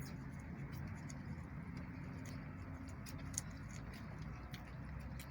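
Scattered light ticks and taps of poultry pecking at feed, over a low steady hum.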